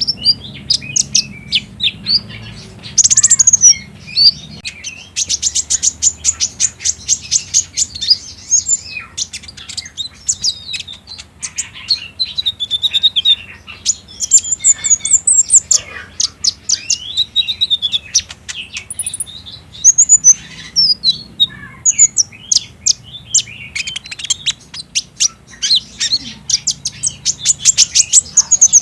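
Sunbird song: fast trills of sharp, high chirps broken by short whistled phrases, going on without pause. This is the rapid 'trotol' trilling used as a lure to set caged sunbirds singing.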